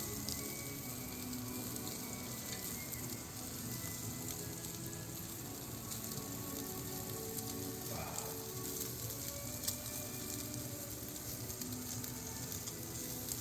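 Pork belly sizzling over a wood fire in a fireplace, fat crackling steadily as it renders and drips off. There is one sharper pop about ten seconds in.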